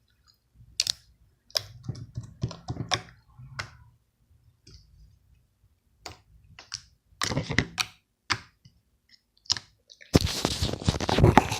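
Homemade slime being squished and played with in the hands, giving short wet clicks and pops at irregular intervals, then a denser, louder stretch of crackling near the end.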